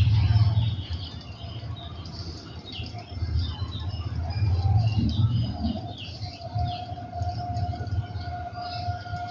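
Small birds chirping in quick, short high notes over a low rumble. A steady held tone joins in for the last few seconds.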